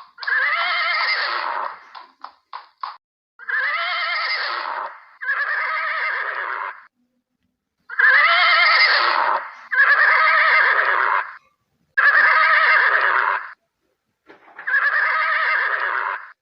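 A horse neighing, seven whinnies of about a second and a half each with a wavering, shaking pitch. A few short clicks come between the first two.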